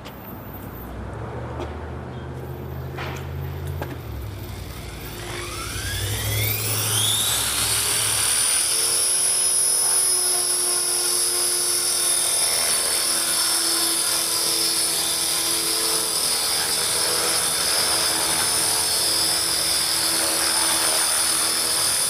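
Align T-Rex 450 electric RC helicopter spooling up: starting about five seconds in, its whine rises steeply in pitch for about three seconds. It then holds a loud, steady high whine of motor, gears and rotor at flying speed, with the rotor run up to check blade tracking after a pitch-link adjustment.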